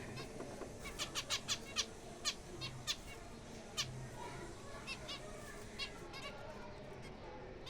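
Small cage finches calling: short, sharp chirps, a quick run of them about a second in, then more scattered ones.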